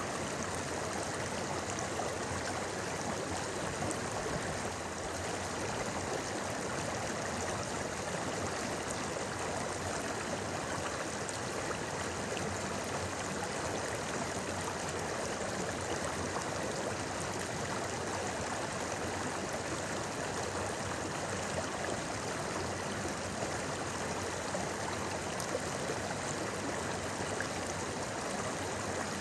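A shallow river or stream flowing steadily over rocks, a continuous rushing and babbling of water.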